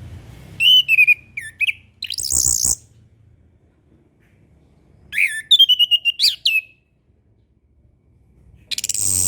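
Chestnut-capped thrush (anis kembang) song: two loud whistled phrases of gliding notes mixed with quick high twitters. A short harsh rasping burst comes after the first phrase and again near the end.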